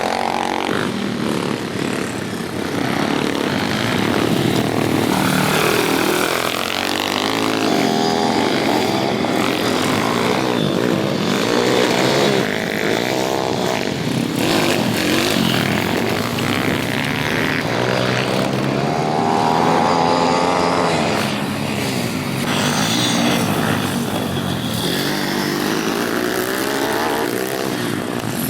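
Several pit bikes racing, their small engines revving hard, overlapping and rising and falling in pitch again and again as the riders accelerate and shift.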